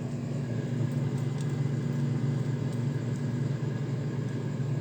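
Samsung double-door refrigerator running with a steady low hum and rumble that does not stop. Company technicians put the noise down to the compressor, which they say must be replaced, perhaps because a thin supply pipe is giving trouble.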